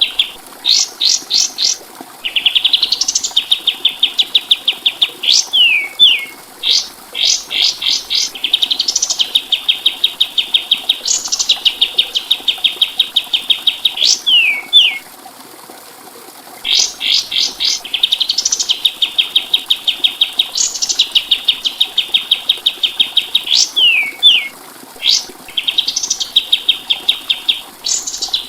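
Kapas tembak songbird singing: repeated phrases of quick high upward flicks that run into a long, even, rattling trill, each phrase ending with a few short down-slurred notes. The song breaks off for about two seconds midway, then resumes.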